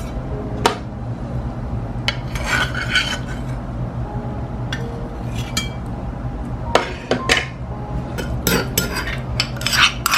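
Dishes and cutlery clinking and clattering in scattered bursts, with a few brief scrapes, over a steady low hum.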